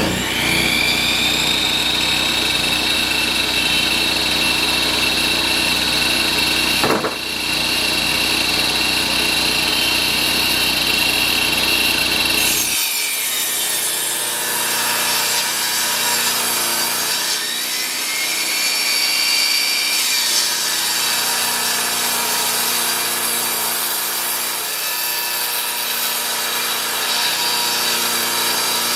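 Table saw motor spinning up with a rising whine that settles into a steady pitch, then the blade ripping along the edge of a rough-sawn board, the sound wavering up and down as the board is fed through.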